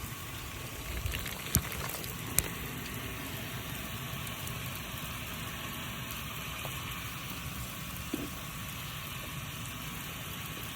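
Rain Jet 75C large-circle brass lawn sprinkler running on a 3/4-inch supply, a steady hiss of spraying water falling like rain. Two sharp clicks come about one and a half and two and a half seconds in.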